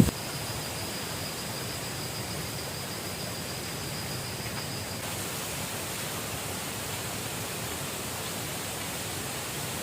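Steady, even rush of flowing water, as of a river running, with a faint high steady tone that stops about halfway through.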